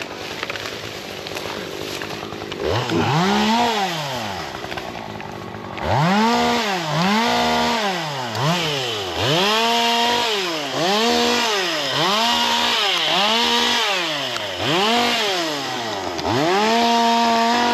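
Small two-stroke chainsaw engine revving in repeated bursts, about eight times: each rises quickly to full speed, holds for a second or so, then drops back toward idle.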